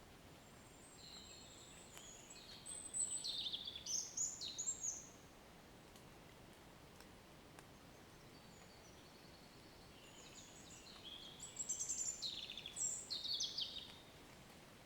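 A songbird sings two phrases of quick, high, varied notes, the second about nine seconds after the first, over a faint steady background hiss.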